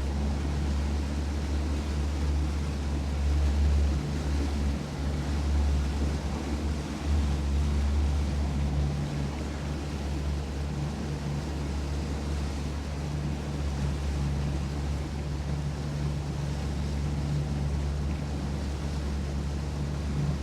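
A boat's outboard motor running steadily, a continuous low drone.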